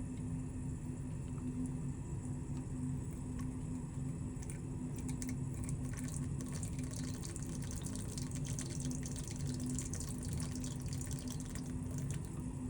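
Running water trickling and splashing over a steady low hum, with a busier patter of drips and splashes in the middle.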